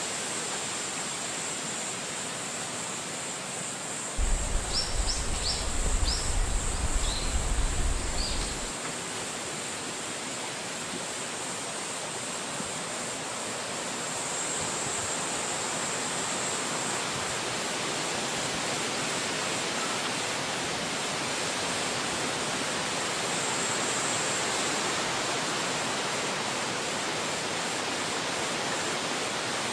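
Steady rain falling, an even hiss. Between about four and nine seconds in, a burst of low rumbling comes in along with a few short, high chirps.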